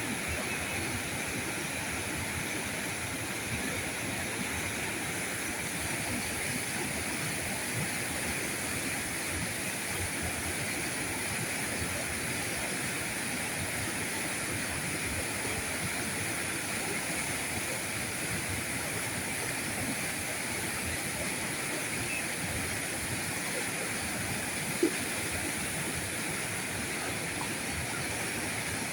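River current rushing steadily over rocks. One short click about 25 seconds in.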